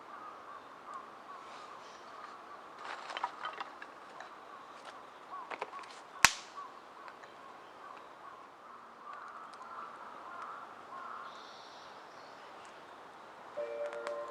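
Wood fire crackling with scattered small snaps and one sharp, loud pop about six seconds in. Music begins near the end.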